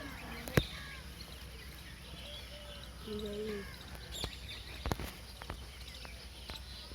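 Outdoor ambience with small birds chirping, a single sharp click less than a second in that is the loudest sound, a short held call about three seconds in, and a few fainter clicks about four to five seconds in. The toy boat's small DC motor is not heard.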